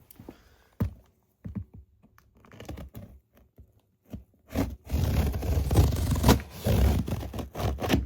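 Shipping packaging being torn open by hand: a few scrapes and knocks, then from about five seconds in a loud, continuous tearing and rustling that lasts about three seconds.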